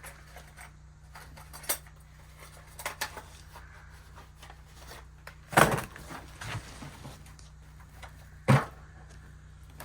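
Hard objects being handled and set down while boxes are rummaged through: scattered clinks and knocks, the two loudest about five and a half and eight and a half seconds in.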